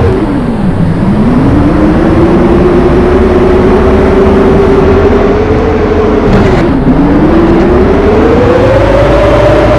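A vehicle motor running with a loud whine and a low rumble beneath it. Its pitch drops sharply and recovers about a second in, dips again about two-thirds of the way through, then climbs steadily, as the motor slows and speeds up.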